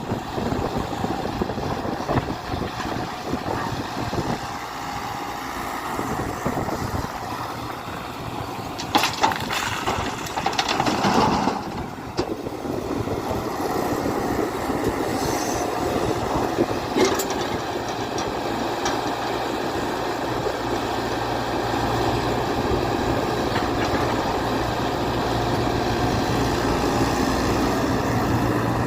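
Tata Hitachi EX120 excavator's diesel engine running steadily under work. A few sharp knocks and clatters come about a third of the way in and again a little past the middle.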